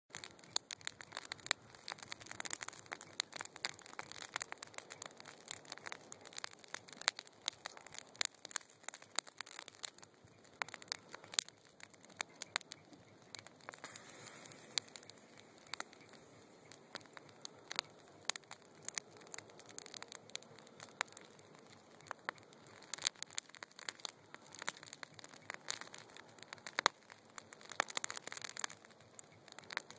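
Wood fire burning in a fire pit, crackling steadily with frequent sharp pops and snaps over a soft hiss of flame.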